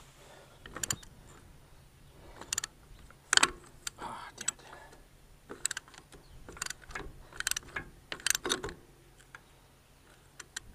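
Irregular sharp metallic clicks and clinks of hand tools and parts, with a brief scrape, during work on a tanker's vacuum pump.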